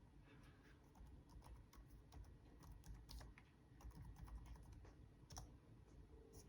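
Faint, irregular key presses on the newly replaced keyboard of a Dell Latitude E7440 laptop, a scattered run of short clicks.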